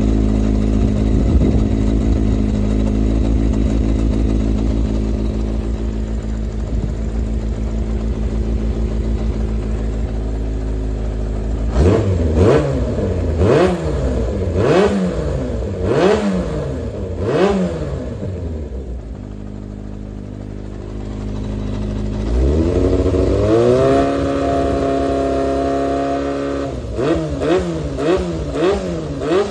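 Yamaha XJR400 (4HM) inline-four engine running. It idles steadily, is blipped about five times, then rises and holds a higher speed, and near the end is blipped quickly about twice a second. The seller describes it as running free of abnormal noise.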